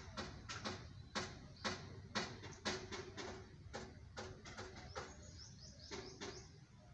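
Outdoor ambience with birds chirping: a series of sharp chirps or clicks about every half second, with a few short high notes in the second half, over a low steady rumble.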